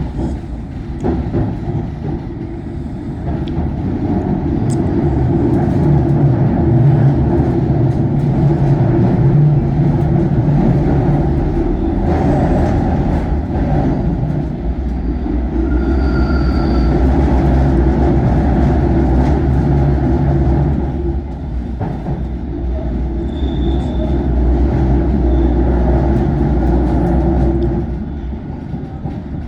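Passenger train running along the track, a steady loud rumble of wheels and running gear as it takes a right-hand curve, with a few short high-pitched squeals partway through.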